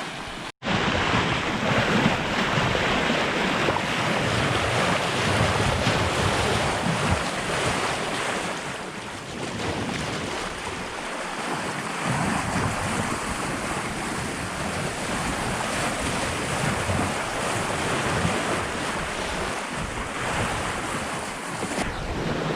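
Sea water rushing along the hull of a Hallberg-Rassy 54 sailing yacht under way at about 7 knots, with wind buffeting the microphone. The sound cuts out for a moment about half a second in, then runs on steadily.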